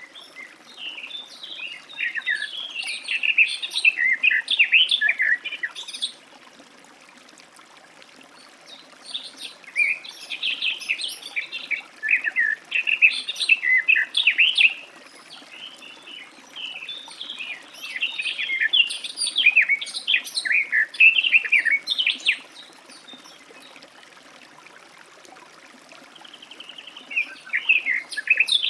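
Garden warbler singing: long, fast, rambling warbled phrases, one of about five seconds, then a longer one of about twelve seconds, and a short phrase starting near the end.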